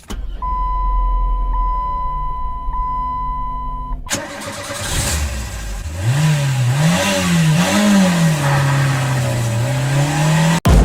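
An engine idling with a low rumble and a steady high tone over it for the first few seconds. Then, after an abrupt change, it runs louder and is revved up and down three times before holding a steadier, slightly rising speed, and it cuts off abruptly near the end.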